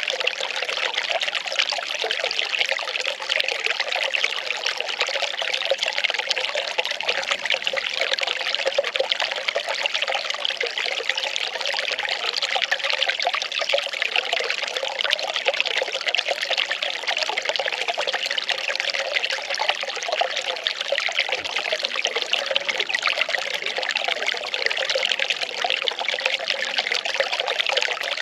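Well water pouring and trickling steadily, without a break.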